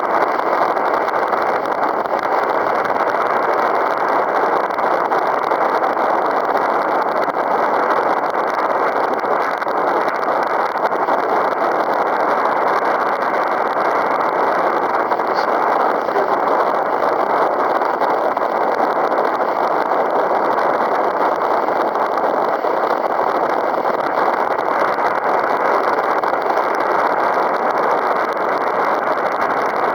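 Strong wind blowing across the microphone: a loud, steady rushing noise with no break.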